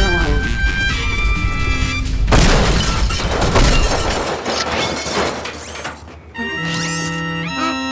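Cartoon crash and shattering sound effects over background music, loudest a couple of seconds in. A light, bouncy music cue with clear held notes follows near the end.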